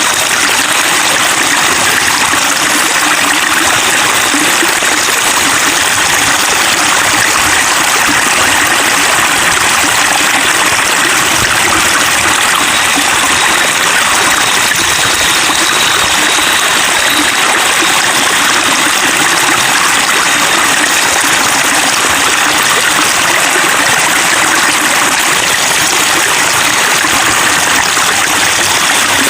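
Water babbling and splashing in a steady, even rush, like a small stream or water flowing over stones.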